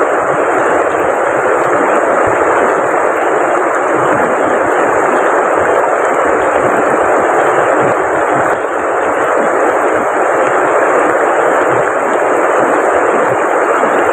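Heavy rain falling steadily: a dense, unbroken hiss.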